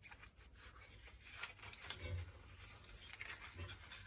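Faint rubbing and scattered small clicks of hands working the coiled recoil-starter spring of a Hayter Harrier 2 lawnmower back into its housing, with a few sharper ticks partway through.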